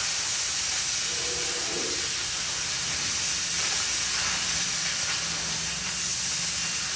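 Oxy-acetylene cutting torch hissing steadily as it cuts through steel plate.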